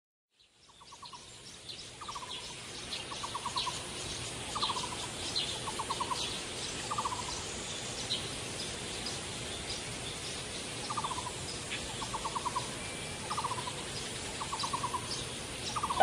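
Birds singing: one bird repeats a short rattling trill and a quick slurred note in turn, with a pause about halfway, over fainter high chirps from other birds. The sound fades in just after the start.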